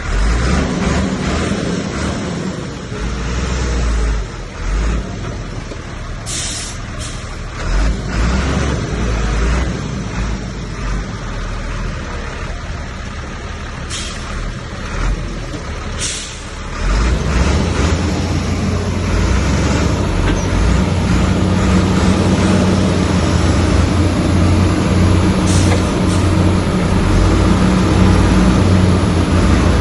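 Heavy diesel engine of earthmoving machinery running, becoming louder and working harder from a bit past halfway. A few short sharp hisses cut through it.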